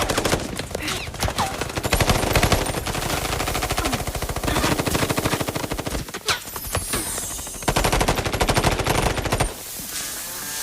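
Rapid automatic gunfire in sustained bursts, easing off about six seconds in, then resuming and cutting off suddenly near the end.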